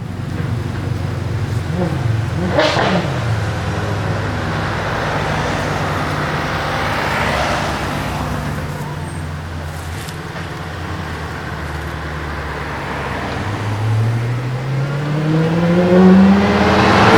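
De Tomaso P72 engine running at low revs, with a quick dip and rise in pitch about two seconds in, then climbing steadily in pitch and getting louder as it accelerates over the last few seconds.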